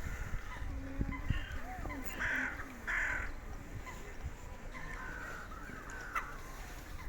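Crows cawing, two loud harsh caws close together, amid fainter calls of other birds over a low background rumble.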